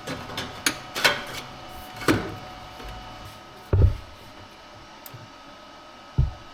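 Scattered clicks and knocks of work on a car's exhaust pipe, with two dull thumps, one near the middle and one near the end.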